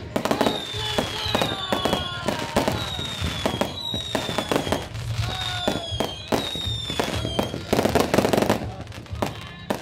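Fireworks display: a dense, rapid string of bangs and crackles, with whistles that fall slightly in pitch over them.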